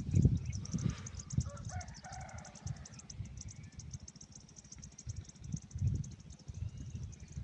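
Strong wind buffeting the microphone in uneven low gusts, over a steady fast-pulsing insect chirr. A faint distant call comes about two seconds in.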